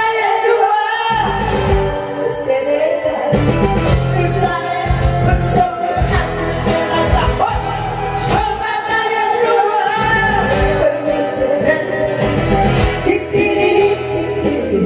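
Two singers performing a song live over a recorded backing track with a steady beat.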